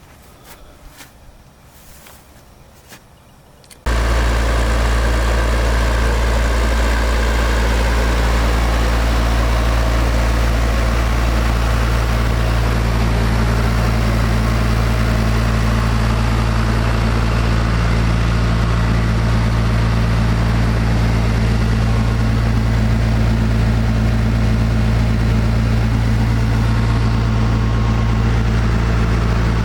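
Faint footsteps for the first few seconds, then an abrupt switch about four seconds in to the restored International Harvester TD-7 Series C bulldozer's diesel engine idling, loud and steady with a low, even drone.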